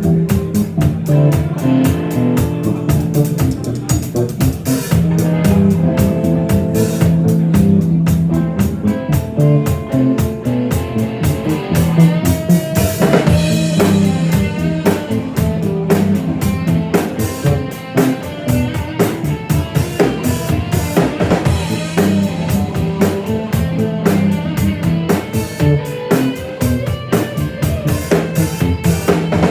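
Live rock band playing an instrumental stretch with no singing: a drum kit keeping a steady, busy beat over bass guitar and electric guitar.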